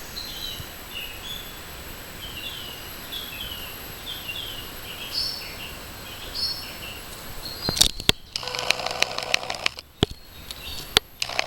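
Small songbirds chirping in short, slurred, falling notes over a steady hiss. About eight seconds in, sharp clicks and louder rustling noise take over.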